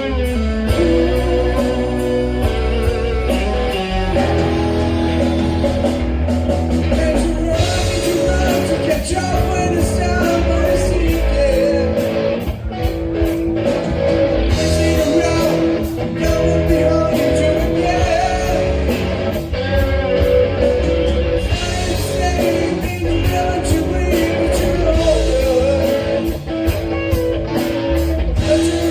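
Rock music with electric guitar, drums and a singing voice.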